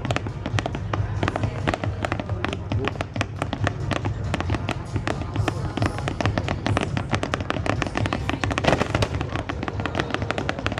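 Fireworks going off in a dense barrage of rapid bangs and crackles, many per second, with the loudest burst about nine seconds in. Music plays underneath.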